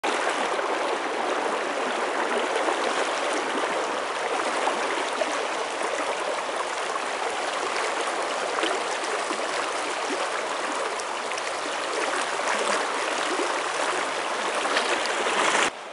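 Rushing river water: a steady, even rush of flowing water.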